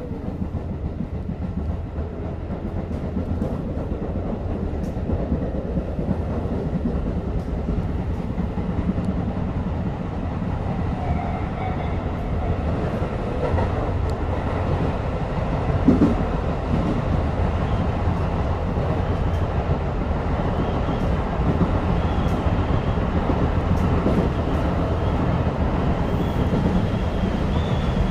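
Tobu 10030-series electric train running between stations, heard from inside the front car: a steady rumble of wheels on rail that slowly grows louder, with a brief knock about 16 seconds in.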